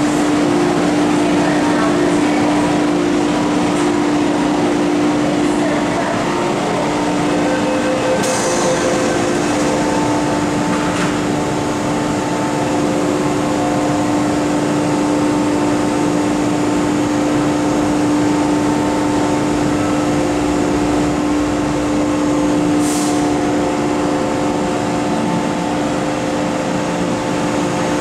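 MTR M-Train electric multiple unit giving a steady electrical hum of several held tones, with two brief hisses of air, one about a third of the way in and one near the end.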